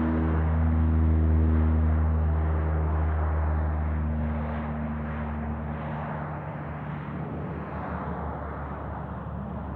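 Airliner taking off: steady engine noise with a deep drone and a rush of jet blast, loudest about a second in and slowly fading as it climbs away.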